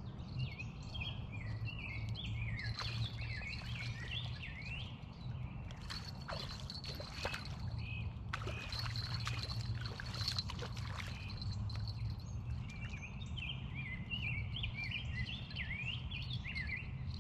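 Small songbirds chirping and warbling in quick phrases, busiest in the first few seconds and again near the end, over a steady low outdoor rumble. Faint scattered clicks and scrapes come in the middle stretch.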